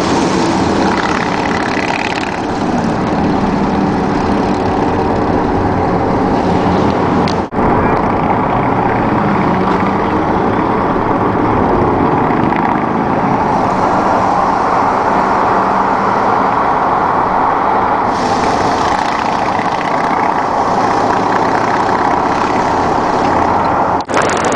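Steady road-vehicle noise: engines running and tyres on the road, with two brief dropouts, one about a third of the way in and one near the end.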